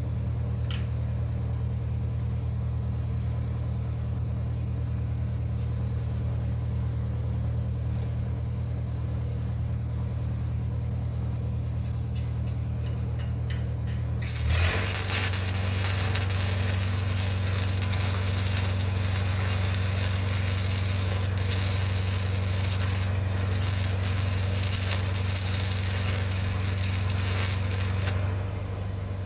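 A welding machine hums steadily. About halfway through, an electric welding arc strikes and crackles and sizzles without a break for about fourteen seconds as a latch is welded onto steel pipe, then stops just before the end.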